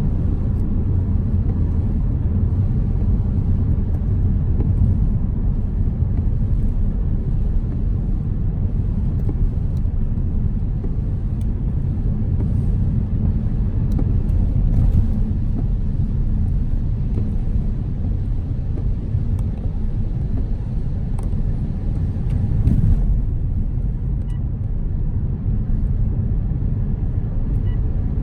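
Steady low rumble of a car driving on the road, tyre and engine noise, with faint scattered ticks of rain hitting the car.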